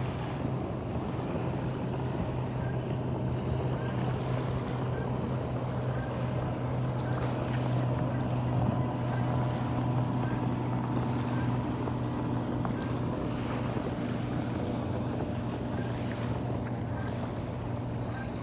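A steady low engine drone holding one pitch throughout, over the wash of wind and water.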